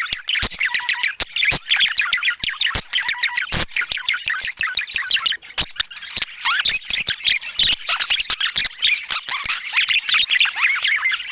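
Budgerigars chattering: a dense, continuous run of quick warbling chirps and squawks, with frequent sharp clicks mixed in.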